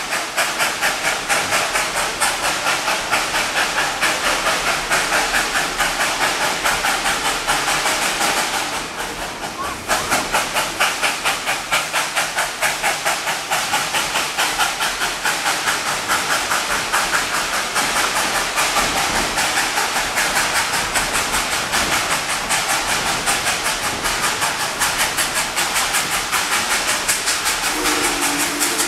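Steam locomotive chuffing in a fast, even rhythm as the train runs, with its exhaust easing off briefly about nine seconds in. Near the end its steam whistle starts to blow.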